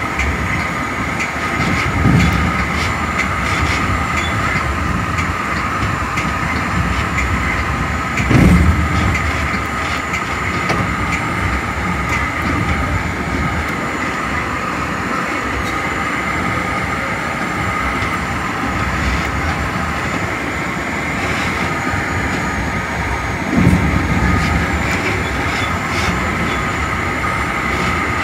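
Metra commuter train running at speed, heard from inside its cab car: steady rolling noise of wheels on rail with a constant whine, broken by three short, louder thumps, about two seconds in, near eight seconds and near twenty-three seconds.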